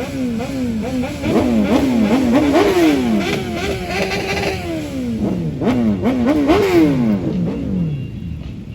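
Superbike engines revved again and again in quick throttle blips, the pitch climbing and dropping over and over. A longer held rev comes about four seconds in, and the sound dies down near the end.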